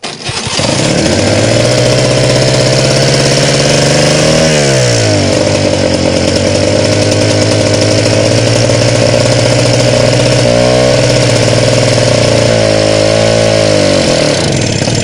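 DT-75 crawler tractor's small single-cylinder two-stroke petrol starting (pony) engine running fast and loud to warm the frozen diesel. Its pitch sags and recovers about four seconds in and twice more near the end as it takes the load of trying to crank the stiff cold main diesel, which it cannot turn over. It starts abruptly and cuts off just before the end.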